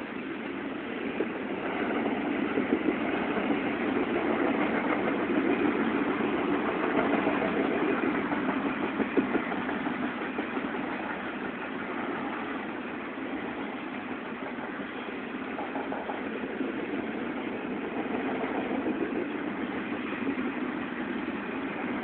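Norfolk Southern intermodal freight train rolling past: a steady rumble and clatter of wheels on rail, louder in the first half.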